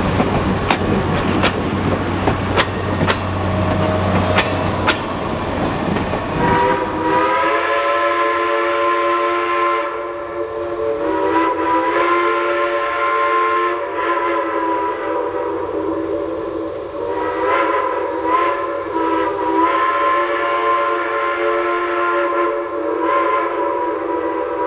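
A steam train running, with sharp clicks over a rumble for the first several seconds. About seven seconds in, the steam locomotive's chime whistle starts blowing a chord of several notes in long blasts, with a few brief dips.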